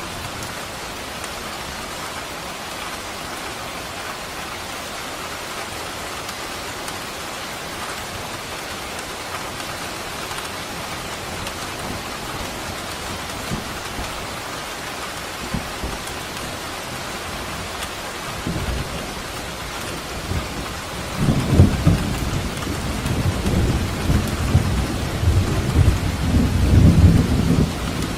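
Steady rain falling, with a low, uneven rumble of thunder that starts about two-thirds of the way through and swells loudest near the end.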